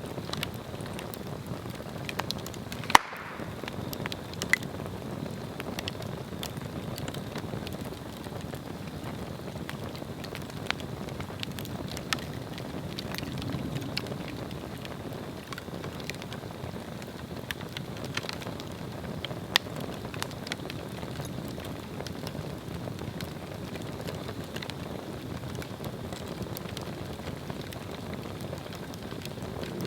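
Swedish torch, a log split lengthwise and burning from its centre, crackling: a steady rush of flame with scattered sharp pops, the loudest about three seconds in.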